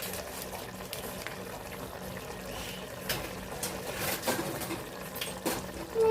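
Liquid bubbling at a boil in a cooking pot, a steady hiss with scattered light clicks.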